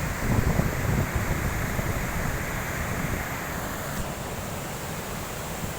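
Steady rushing noise of the Kuntala waterfall, with wind buffeting the microphone in the first second or so.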